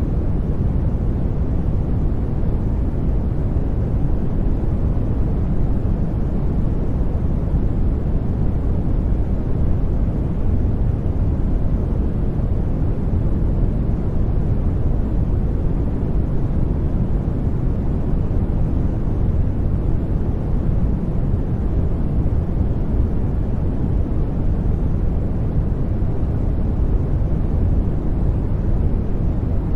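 Steady sleep-aid noise track, even and unchanging, weighted to the low end so it sounds as a deep, soft rumble rather than a bright hiss.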